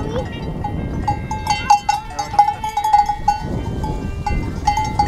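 Cowbells on cattle grazing beside the track, clanging irregularly with short ringing strikes, over a low rumble.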